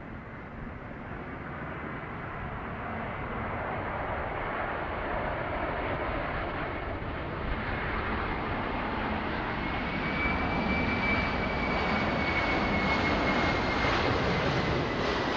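Jet aircraft engines, a rushing noise with a thin high whine, growing steadily louder as the plane approaches.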